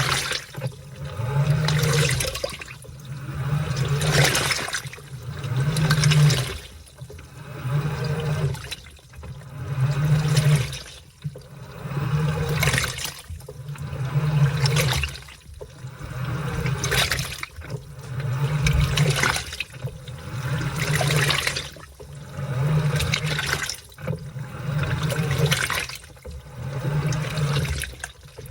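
A washing machine agitating a load of laundry. Water sloshes in a swell about every two seconds, and the motor hums on and off in short bursts as the drum or pulsator turns back and forth.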